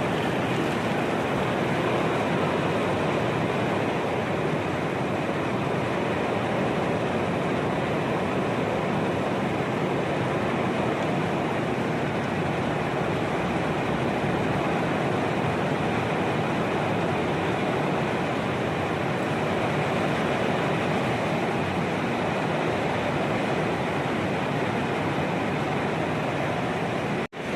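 Heavy rain falling steadily in a windstorm, a dense even hiss that cuts out briefly near the end.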